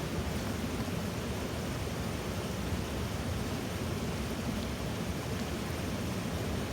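Steady rushing noise with no distinct events, heaviest in the low end.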